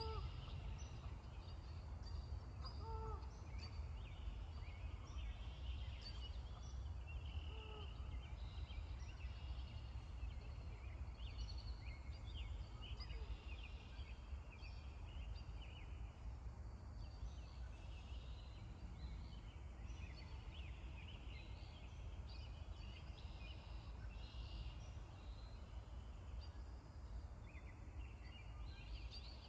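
Small birds chirping and twittering all through over a steady low rumble, with a few short honks from geese in the first eight seconds.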